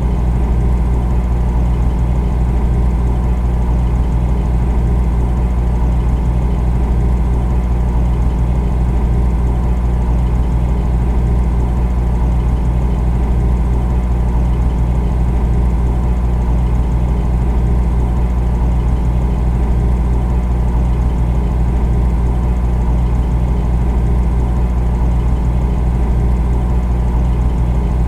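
Refrigerator running: a steady, deep hum with a few steady tones above it.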